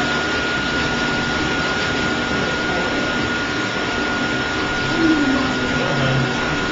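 Dog blow dryer running steadily, a constant rush of air with a steady high whine.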